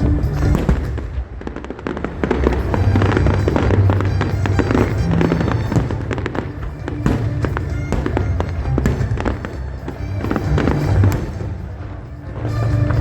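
Fireworks bursting and crackling in rapid, continuous succession, over music.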